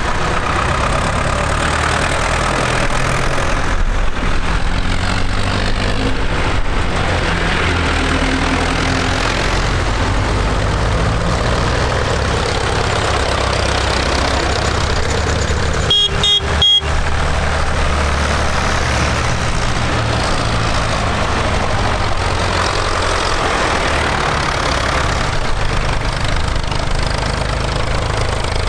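Tractor engines running steadily as tractors in a road convoy pass, with three short, high horn beeps in quick succession about halfway through.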